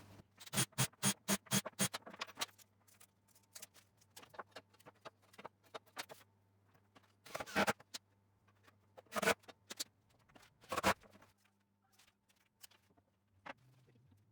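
Small wooden parts being handled on a work surface: a quick run of about a dozen sharp clicks, then three separate knocks a second and a half apart and a few faint ticks.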